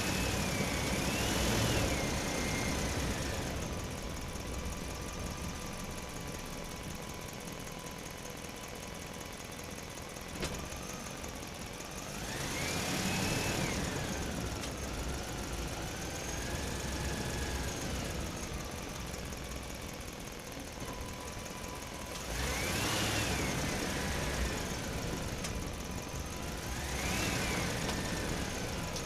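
Small electric motors of a radio-controlled toy excavator whining in several bouts, their pitch rising and falling as the arm and bucket move, over a steady faint hum.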